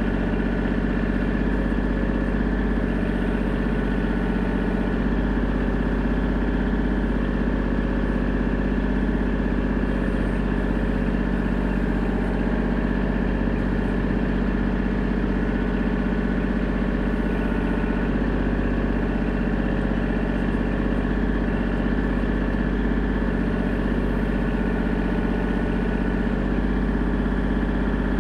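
An engine running steadily at an unchanging speed, a constant hum with no revving.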